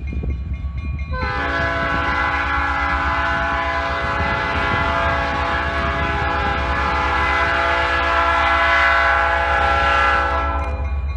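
Diesel freight locomotive's multi-chime air horn sounding one long chord blast of about nine seconds over the low rumble of the passing train.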